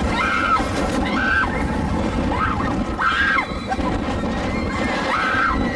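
Roller coaster ride noise: a steady rough rumble with short high-pitched squeals coming about once a second.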